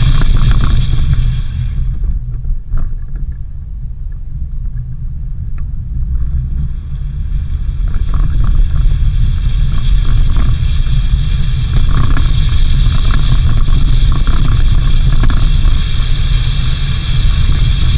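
A car driving along, with a steady, loud low rumble of engine and road noise that eases for a few seconds early on before building back up.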